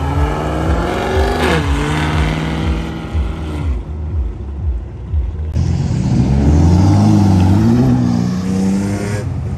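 Cars accelerating hard one after the other. First a Cadillac CTS wagon's engine revs up, dropping in pitch about a second and a half in as it shifts. Then a Ferrari's engine revs up as it pulls away, loudest near the end.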